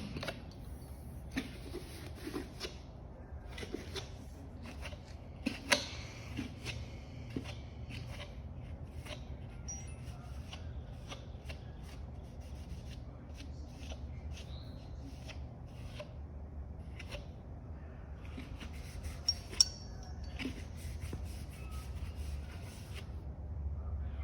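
Scattered clicks, taps and rubbing from handling a fork-oil bottle and measuring container while measuring out fork oil, with a couple of sharper knocks, over a steady low hum.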